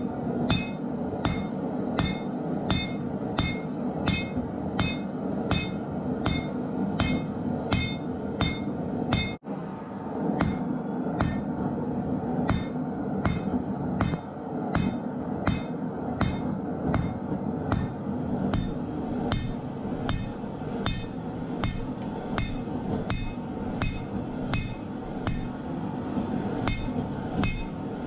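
Hand hammer forging a steel knife blank on an anvil: steady, even blows about two to three a second, each with a short metallic ring. A steady noise runs underneath, and there is a brief break about nine seconds in.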